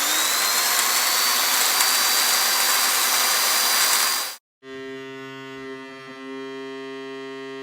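A machine running loudly: a rushing noise with a whine that rises quickly and then holds high, cutting off suddenly after about four seconds. After a short gap, a quieter steady hum with many even tones follows, dipping briefly in the middle.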